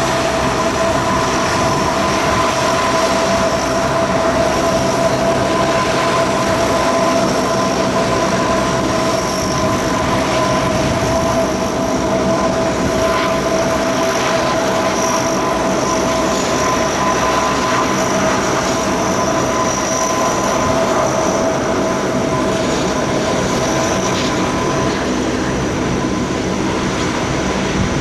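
Lockheed P-3C Orion's four Allison T56 turboprop engines running loud and steady, a dense drone with a steady whine held through it.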